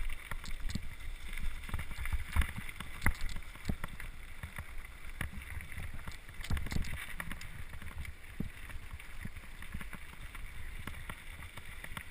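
Mountain bike riding over a rough dirt trail: a low rumble with scattered knocks and rattles from the bike, a few louder jolts among them, and wind on the microphone.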